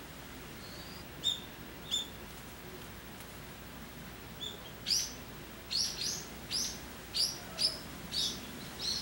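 A small bird chirping: two short high chirps about a second in, then a quick run of sharp chirps through the second half.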